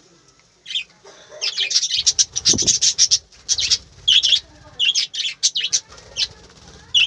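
A flock of budgerigars chirping and chattering in quick, high, overlapping calls, busiest for the first few seconds and then in scattered bursts.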